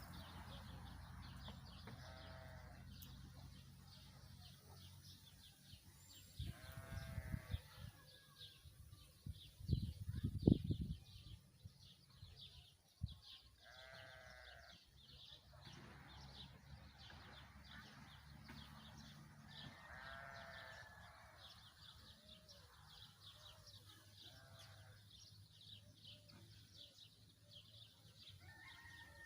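Livestock bleating, about six short calls spaced a few seconds apart, over a steady high chirping. A loud low rumbling bump about ten seconds in is the loudest sound, with a smaller one a few seconds earlier.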